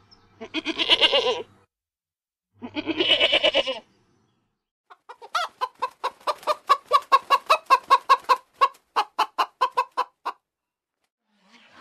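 Two wavering goat bleats, then a chicken clucking in a fast even run of about five clucks a second for some five seconds.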